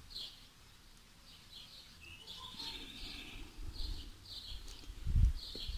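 A small bird chirping, short high notes repeated every half second or so, with a busier run of chirps midway. A low rumble comes about five seconds in.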